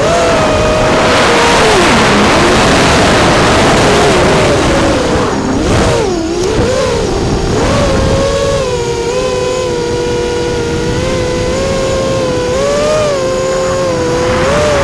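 Brushless motors and props of an FPV racing quadcopter (Rotor Riot Hypetrain motors, Racekraft props) whining over a loud rush of wind. The pitch wavers and dips sharply with the throttle about six seconds in, then holds fairly steady with small rises and falls.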